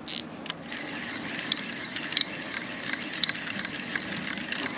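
Spinning reel being wound in to retrieve a bait rig: a steady whirring with a few sharp ticks.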